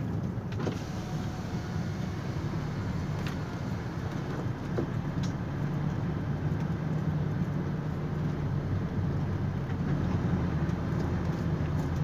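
Heavy truck's engine running steadily, a low even hum, with a few faint clicks over it.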